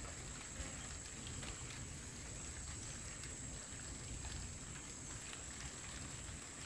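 Light drizzle: a faint, even patter of raindrops, with a steady thin high tone behind it.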